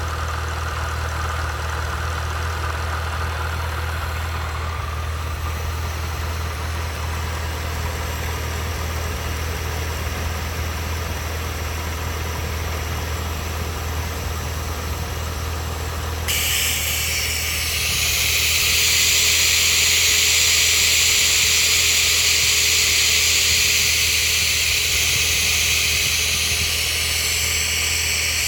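Engine with Edelbrock parts idling steadily, with a vacuum leak being looked for. A little past halfway a loud hiss starts suddenly and keeps going over the idle.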